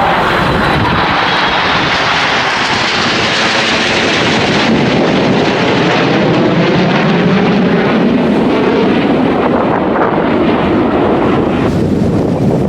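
Loud roar of a display aircraft flying past. It starts bright and hissing, then drops to a deeper, duller rumble as the aircraft passes and moves away.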